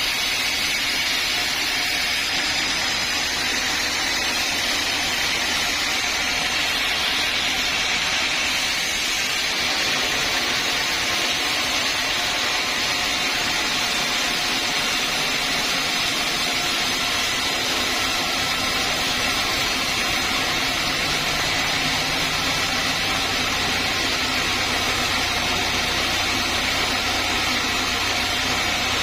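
Sawmill saw machinery running steadily, an even, unbroken mechanical whir with a strong hiss.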